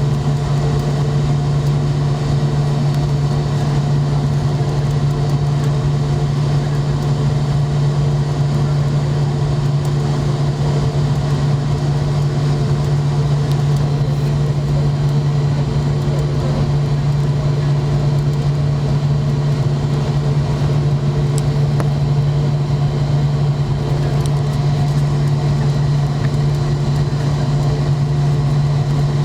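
Steady drone of a McDonnell Douglas MD-90 jet airliner, its engines and air system running at a constant low pitch with no rise or fall.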